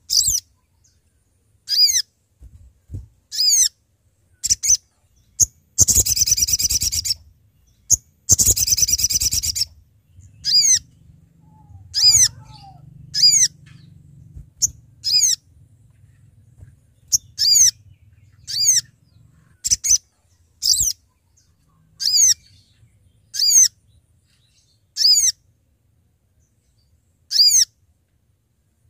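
Little spiderhunter (sogon, sogok ontong) calling: short, sharp, high descending notes repeated about every second and a half, with two longer rapid chattering runs about six and eight seconds in. It is a male's calling to a rival, used as a lure song.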